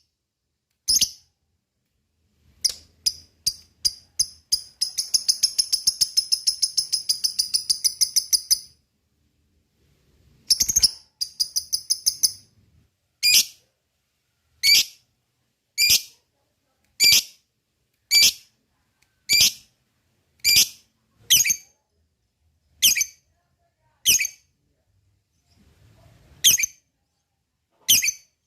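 Lovebird calling: a few sharp chirps and clicks, then a rapid chattering trill (the 'ngekek') lasting about four seconds, a second shorter trill, then single shrill calls repeated about once a second.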